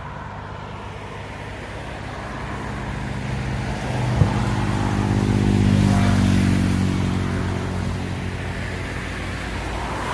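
A road vehicle's engine passes close by, growing louder to a peak about six seconds in and then fading away. A single sharp crack sounds about four seconds in.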